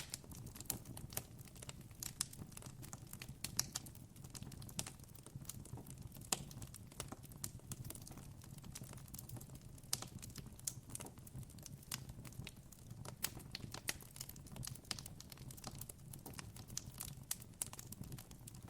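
Campfire crackling: many irregular small pops and snaps over a steady low hum.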